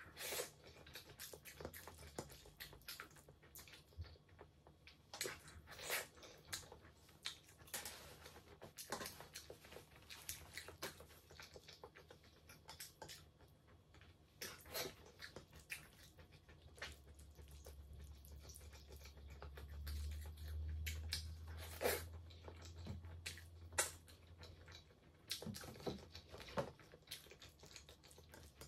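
Close-miked mouth sounds of someone eating rice and pasta with stew by hand: soft chewing with many short, sharp smacks and clicks.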